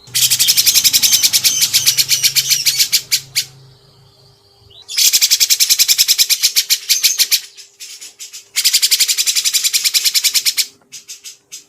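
Songbird singing fast, dense trilled phrases in three long bouts separated by short pauses, with a few scattered short notes near the end. A faint steady hum runs underneath.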